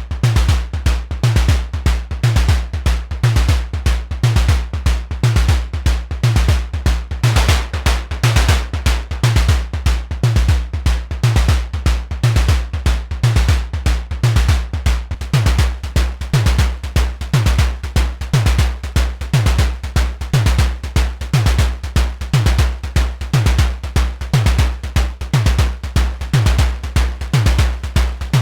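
Semi-modular analog percussion synthesizer running a sequenced drum pattern: repeating kick-like hits that drop quickly in pitch, over fast clicky percussion and a constant low drone.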